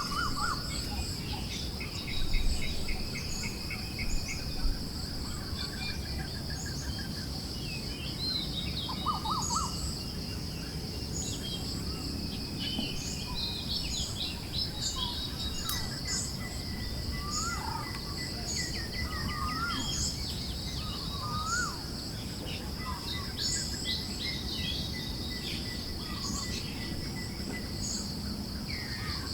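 Several songbirds chirping and trilling in short, scattered calls over a steady high insect trill, with a soft low rush of wind beneath.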